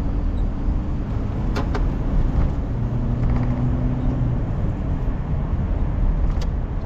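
A car's engine and road noise heard from inside the cabin while driving: a steady low rumble, with two short clicks, one about a second and a half in and one near the end.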